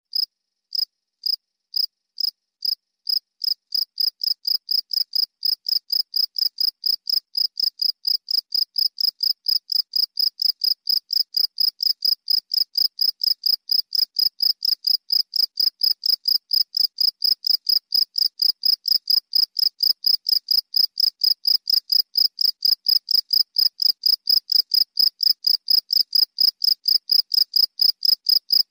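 A cricket chirping steadily in short, high chirps. It starts slowly, about two chirps a second, and within a few seconds settles into a quicker, even rhythm of about three a second, growing slightly louder.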